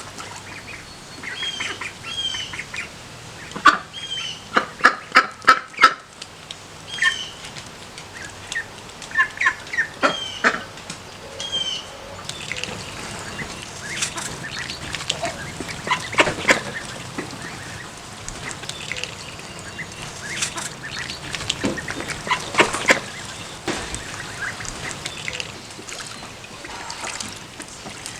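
Ducklings peeping in short, high calls, mixed with louder quacking from adult ducks, including a quick run of loud quacks about four to six seconds in.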